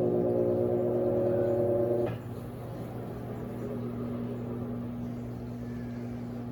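Electrolux LAC16 washing machine's 1/4 hp WEG motor running with a steady hum and whine, which cuts off sharply about two seconds in, leaving a quieter steady hum.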